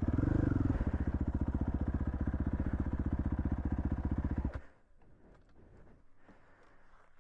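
Dirt bike engine idling with a short rise in revs about half a second in, then switched off, cutting out suddenly about four and a half seconds in.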